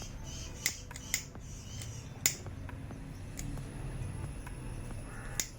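Four sharp clicks spread across a few seconds, the loudest about two seconds in, over a low steady hum; a thin high steady tone begins with the loudest click and runs on.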